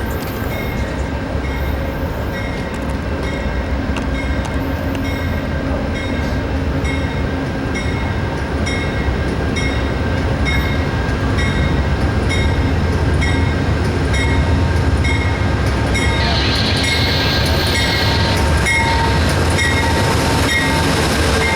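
Amtrak passenger train rolling into a station: a steady low rumble of the locomotive and cars, with a bell ringing about twice a second. A burst of hiss about sixteen seconds in lasts a couple of seconds.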